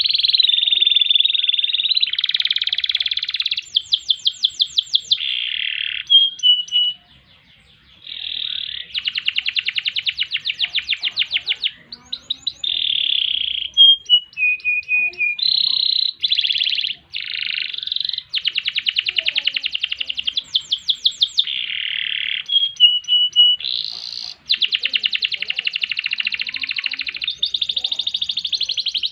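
Domestic canary singing a long, continuous song of fast rolling trills ('ngerol') and sharp, high repeated notes ('nembak'), with one short pause about seven seconds in.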